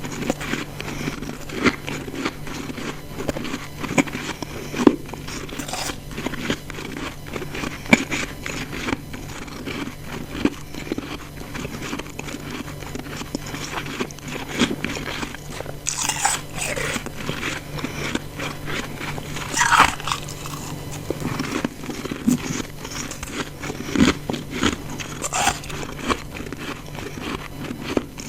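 Close-miked biting and chewing of ice chunks: dense, irregular crunching and crackling, with a few louder, sharper crunches at about 16, 20 and 25 seconds.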